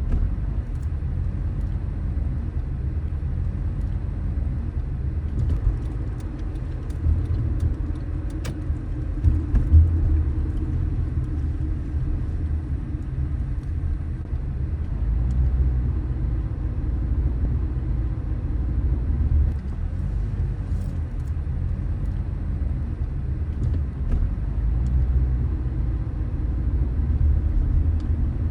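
Car driving on city streets: a steady low road and engine rumble, with a few faint ticks and a brief louder bump about a third of the way in.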